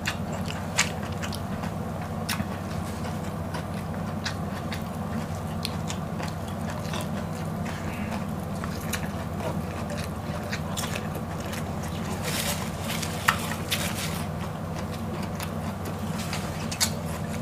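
Close-up chewing of raw sweet potato leaves and other leafy greens: irregular soft crunches and wet mouth clicks, with a cluster of louder ones late on, over a steady low background hum.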